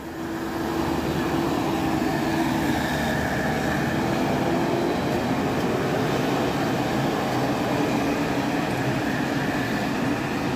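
Steady running noise of a moving bus: engine and road roar that builds over the first second, then holds with a faint steady hum.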